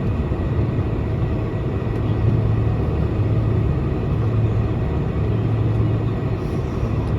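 Cabin noise of a Boeing 747-400 airliner taxiing: a steady rumble from its engines and rolling gear, with a constant low hum.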